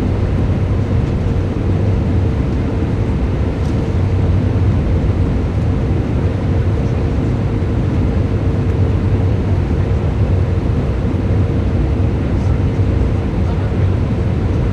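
Steady cabin noise of an Airbus A318-111 airliner: a loud, even rumble of airflow and its CFM56 turbofan engines, with a faint steady hum, heard through a camera suction-cupped to the cabin window.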